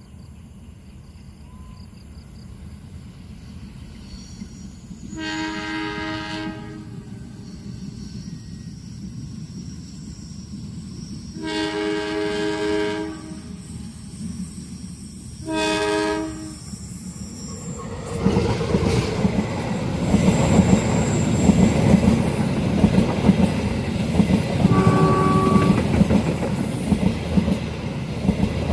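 An approaching train sounds its horn three times, two blasts of about a second and a half and a shorter third, over a rising rumble. It then passes close at speed with a loud rumble and clattering wheels on the rails.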